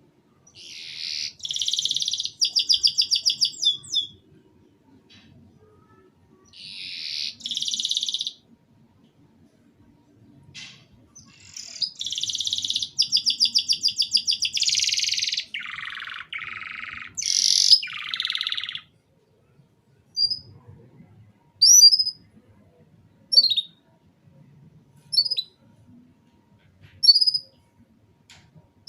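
Domestic canary singing broken-up phrases of fast, high trills and rolls, some dropping lower near the middle. In the last third it switches to short single chirps about every second and a half.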